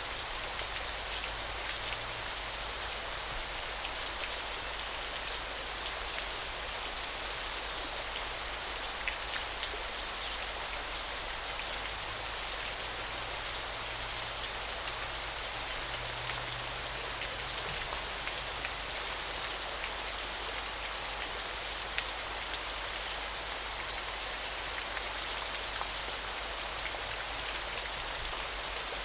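Flowing river water giving a steady, even rush. A thin, very high, even-pitched call repeats in phrases about a second and a half long through the first third and again near the end.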